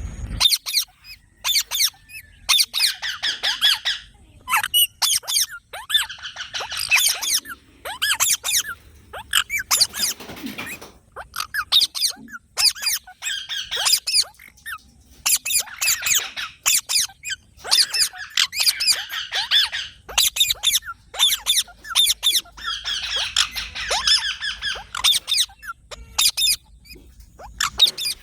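Several pet green parakeets calling: rapid, high-pitched squeaky chirps in dense clusters, with short pauses between them.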